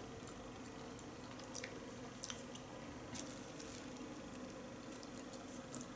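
Close-up eating sounds: food being chewed, with a few sharp clicks, the loudest about a second and a half in, as wooden chopsticks pick at a plastic food tray. A low steady hum sits underneath.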